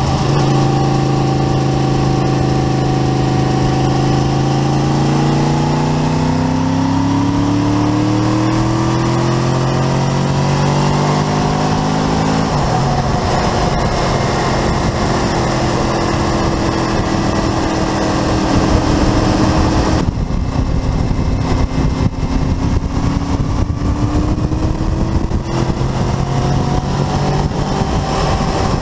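Honda VFR750 RC24's V4 engine running under way, heard from a camera on the bike through steady wind rush. The engine pitch climbs steadily for about twelve seconds, drops sharply, then holds fairly even.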